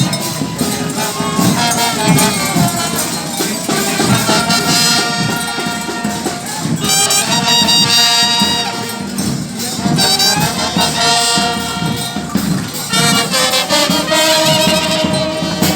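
Brass band music: trumpets and other brass playing held notes and phrases over steady drums and jingling percussion.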